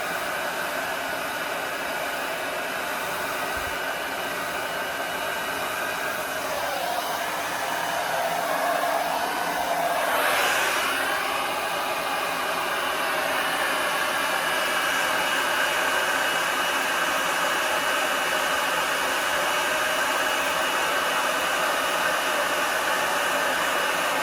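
Handheld hair dryer running steadily as hair is blow-dried, a continuous rush of air with a motor whine whose pitch wavers for a few seconds around the middle.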